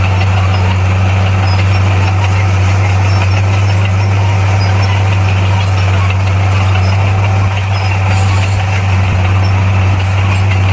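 Bulldozer's diesel engine running at a steady, unchanging drone.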